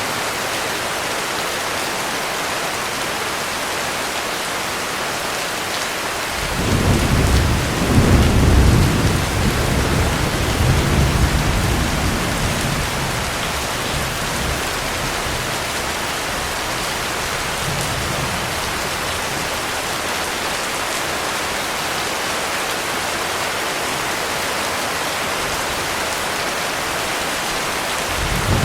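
Heavy rain falling steadily, with a roll of thunder that swells about six seconds in, rumbles low for several seconds and dies away; another rumble begins at the very end.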